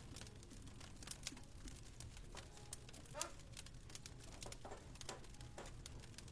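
Wood fire crackling, with scattered sharp pops and a brief rising hiss a little over halfway through, over a low steady rumble.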